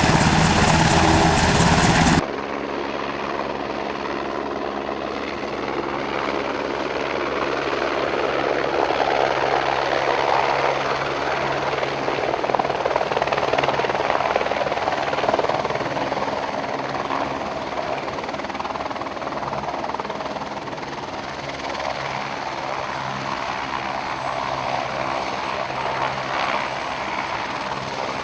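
Helicopter running steadily, the rotor and turbine giving an even hum with a noisy wash on top. About two seconds in, a louder, rougher noise cuts off abruptly.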